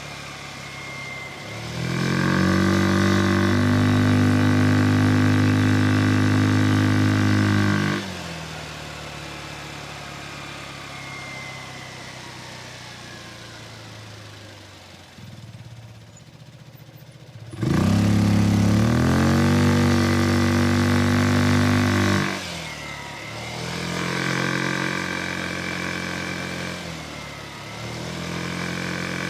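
Vespa Sprint 150 scooter's single-cylinder four-stroke engine, with a Malossi-kitted CVT, heard from the rider's seat. It speeds up and holds a steady loud note, eases off and coasts with falling pitch, surges hard again about two-thirds of the way through, then gives two shorter, milder bursts of throttle.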